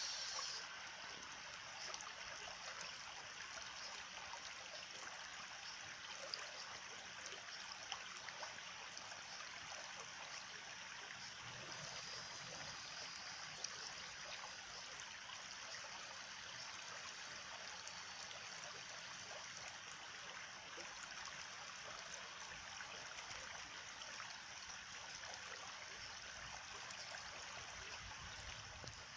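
Stream water flowing and trickling steadily, with a few faint clicks scattered through it.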